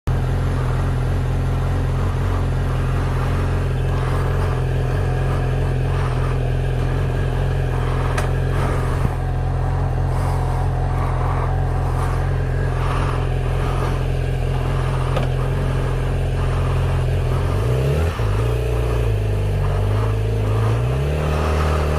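Honda Grom's small single-cylinder engine running steadily while riding at cruising speed. The engine pitch drops about eighteen seconds in, then climbs again near the end as the bike speeds up.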